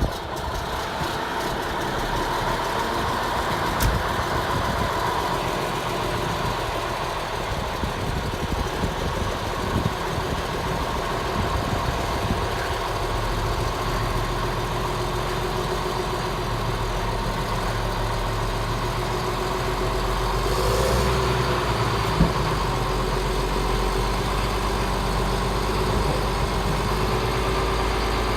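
Caterpillar D6T XL crawler dozer's diesel engine running steadily at idle, with a deeper low hum joining about halfway through and a couple of faint clicks.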